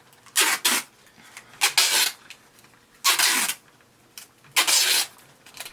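Scotch tape being pulled off the roll in a series of short, sharp rips, about six in all, with pauses between.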